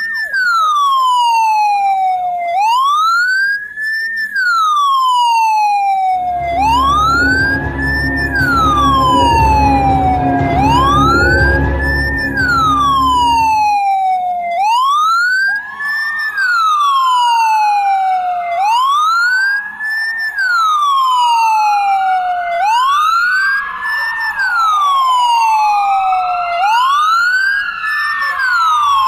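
Ambulance siren wailing: a fast rise and a slower fall in pitch, about one cycle every four seconds. From about six to fourteen seconds a low rumble runs underneath, and from about halfway a second, slightly lower wail sounds out of step with the first.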